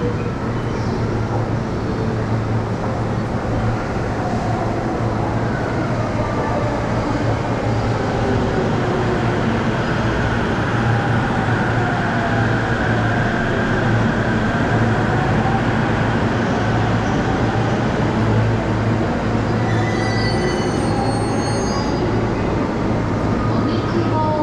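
A JR East Chuo-Sobu Line E231-series electric commuter train running into the platform and braking to a stop, with a steady low rumble. Its electric whine glides up and down in pitch as it slows.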